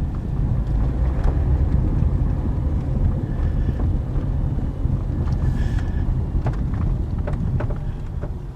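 Steady road and tyre rumble heard inside a moving 2009 Toyota Corolla, with scattered clunks and rattles from the front suspension, which the owner takes for a failing front strut and its bearing.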